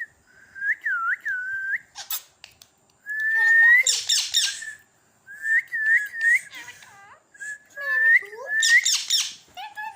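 Pet parrot whistling: a run of short swooping whistles, broken twice by harsher, grating calls.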